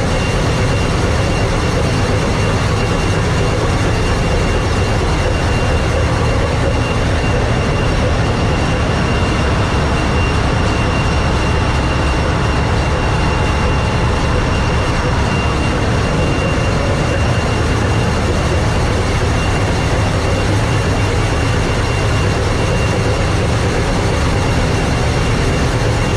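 Tanker ship's engine-room machinery running: a loud, steady drone with a deep rumble underneath and a constant thin high whine on top.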